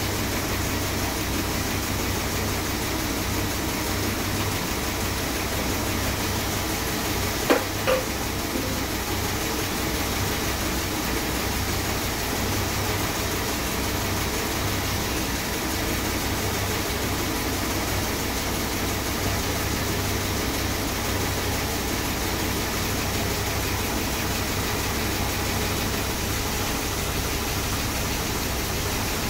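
Freshly rebuilt Chrysler 440 big-block V8 running steadily on its first run after the rebuild, running sweet. Two short knocks come about seven and a half seconds in.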